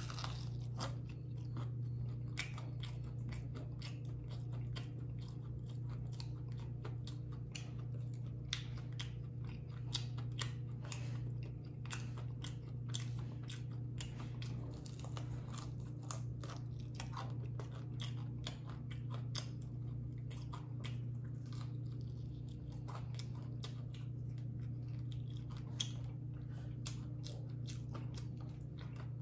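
Chewing and biting into crunchy fried chicken wings: many short, sharp crunches of the crisp breaded skin scattered through the chewing, over a steady low hum.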